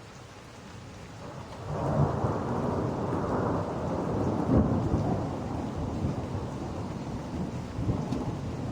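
Thunder rolling over steady rain: a long rumble starts about two seconds in, swells, and slowly dies away.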